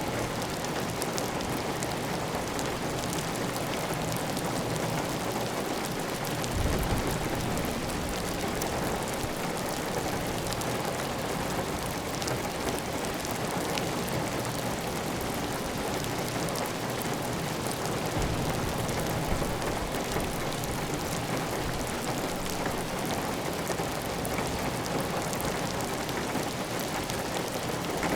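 Steady heavy rain on a clay-tiled roof, a dense even patter of drops with water running off the roof edge. A brief low thump about six and a half seconds in.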